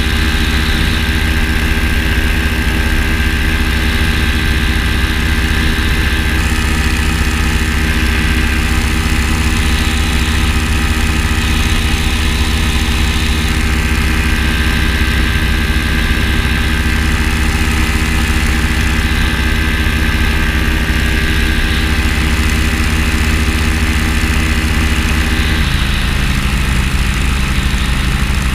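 An engine running steadily at idle, its note dropping slightly lower near the end.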